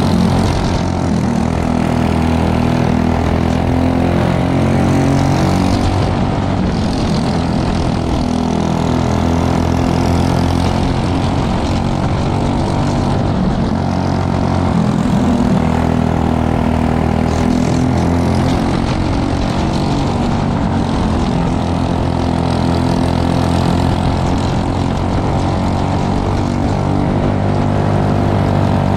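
Racing go-kart engines, the Briggs & Stratton LO206 four-stroke singles, running at race speed. The pitch rises and falls a little with the throttle.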